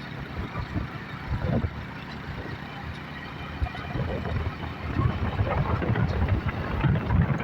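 Yamaha YBR motorcycle's single-cylinder four-stroke engine running on the move, getting louder about four seconds in.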